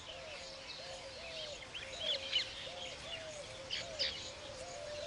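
Weaver birds chirping in short high bursts, loudest about two and about four seconds in, over a low note that repeats about twice a second.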